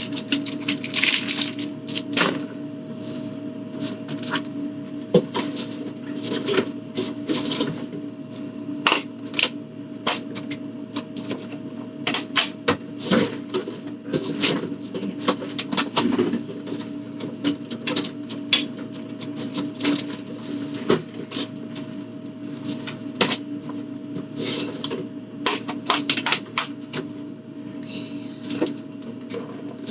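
Food containers, jars and other refrigerator contents being handled and moved around: an irregular run of sharp clicks and knocks over a steady hum.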